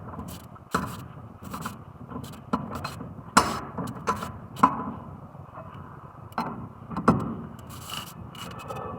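Hand tools clinking and knocking on metal parts during brake work on the car, about ten sharp, irregular clicks and knocks.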